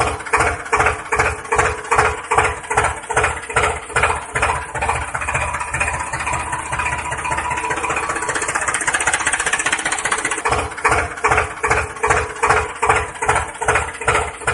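Tractor engine chugging with an even beat of about three thumps a second. Through the middle it quickens into a continuous run, then slows back to the separate beats near the end.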